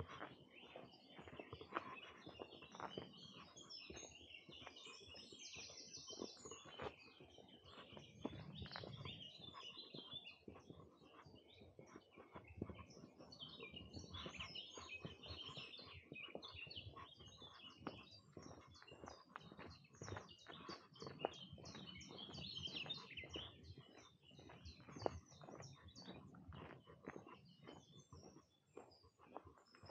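Faint chorus of several songbirds singing and chirping in short calls and trills throughout, over many faint clicks and crunches.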